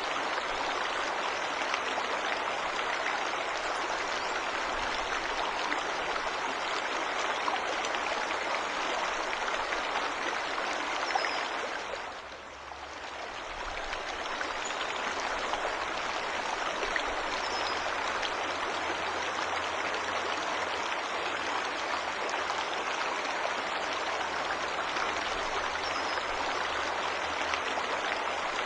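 Waterfall water rushing and splashing steadily, with a brief dip in level about twelve seconds in. A few faint bird chirps come through over the water.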